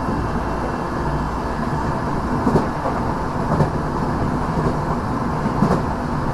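Running sound inside a Tokyo Metro 6000 series electric train (Mitsubishi IGBT-VVVF): a steady rumble of wheels on rail, with a few wheel knocks over rail joints.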